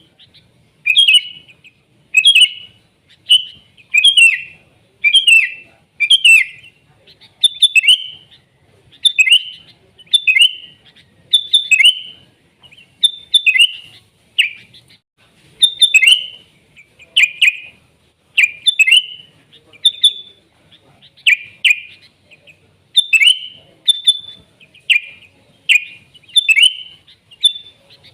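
Sooty-headed bulbul (kutilang) singing: loud, short chirping phrases repeated about once a second.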